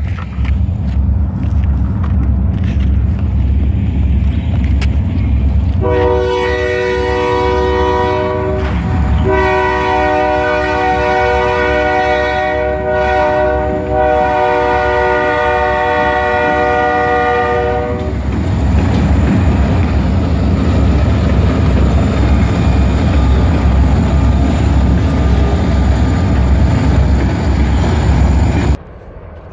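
EMD SD40-2 diesel locomotives running loud with a heavy low rumble from their 16-cylinder two-stroke engines. About six seconds in the air horn sounds, a short blast then a long one of about nine seconds. The sound cuts off suddenly just before the end.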